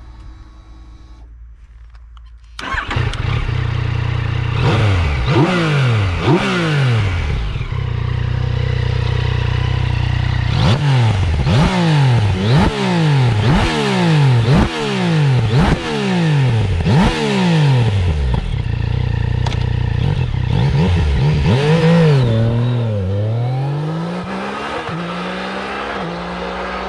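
Yamaha MT-09 Tracer GT's inline three-cylinder engine started about two and a half seconds in, idling and blipped again and again through its exhaust in quick revs that rise and fall, then settling back to a steady idle near the end.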